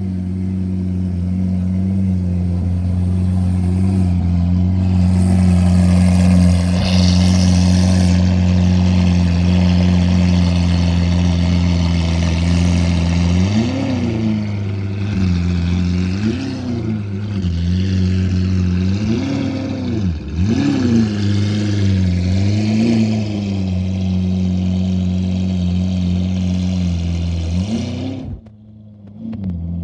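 Liberty Walk Lamborghini Aventador's V12 engine idling steadily, then blipped through about six short revs that rise and fall before it settles back to idle. The sound drops sharply for about a second near the end.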